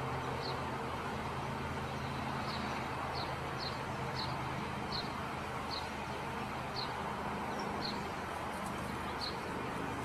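A small bird chirping: about ten short, high chirps, each falling slightly, spaced half a second to a second apart, over a steady hiss and low hum.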